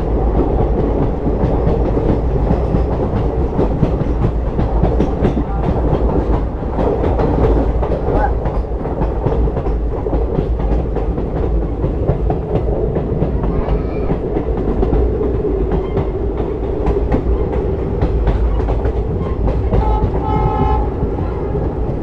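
Diesel-hauled passenger train running, heard from on board: a steady rumble with wheels clicking over the rail joints. Near the end the locomotive's horn sounds once, briefly.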